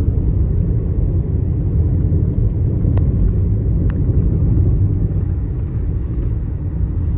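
Car driving along a road: a steady low road-and-engine rumble, with two faint ticks in the middle.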